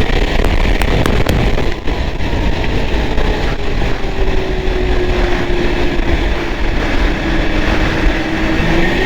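Arctic Cat Thundercat snowmobile engine running hard at trail speed under heavy low wind and track rumble. A few sharp ticks come about a second in, and the engine pitch sags slowly through the middle, then climbs again near the end.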